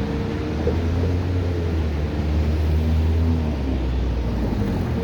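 A road vehicle going by, its low engine rumble building to a peak about three seconds in and then fading.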